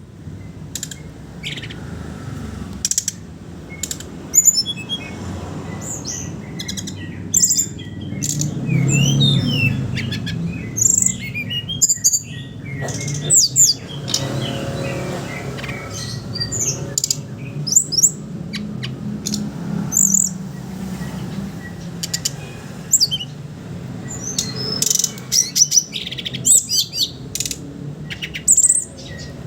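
Brown-chested jungle flycatcher (SRDC) singing: a running mix of quick chattering twitters and short, clear high whistled phrases, some gliding up or down, over a low steady hum.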